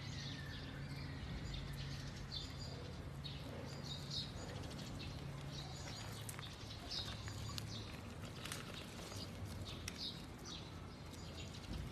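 Faint, short high-pitched chirps repeating irregularly, like small birds or chicks, over a low steady hum.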